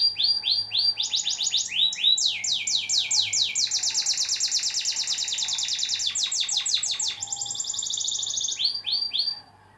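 Canary song played as a tutor (masteran) recording for canaries to learn from: fast trills of repeated high, falling notes that switch to a new trill every second or two. It cuts off suddenly just before the end.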